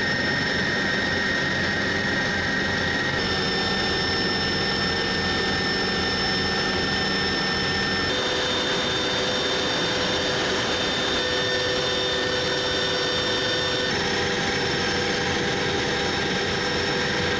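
Aircraft turbine engine running steadily, a loud rushing noise with high whines over it. The whines jump abruptly to new pitches about three, eight and fourteen seconds in.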